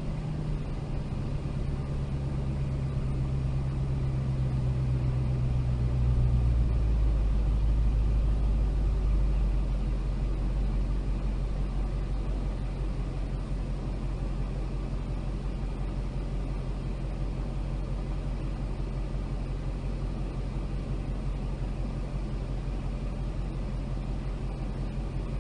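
Supercharged 6.2-litre Hemi V8 of a 2021 Dodge Charger Hellcat Redeye idling, heard from inside the cabin; its note drops lower about seven seconds in and then holds steady.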